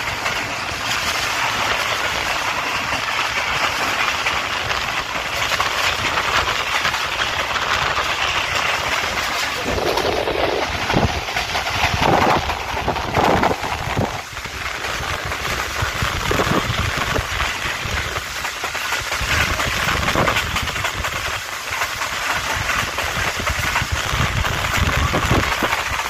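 Tez Gam Express passenger train running along the track: a steady rush of wheel and rail noise with irregular clattering, louder for a few seconds near the middle.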